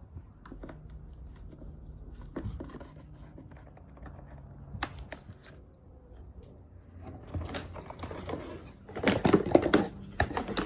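Scattered clicks and taps of hand work on the ATV's plastic bodywork and fittings, turning into a burst of rapid clicking and clatter near the end.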